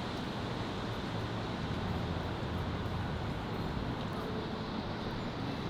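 City street ambience: a steady wash of traffic noise with a low vehicle rumble that swells in the middle, and faint voices in the background.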